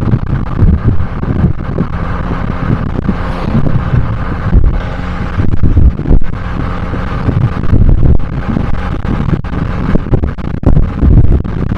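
Abarth 595C's turbocharged four-cylinder engine running through an Akrapovic exhaust while the car is driven: a loud, steady low rumble with frequent short swells in loudness.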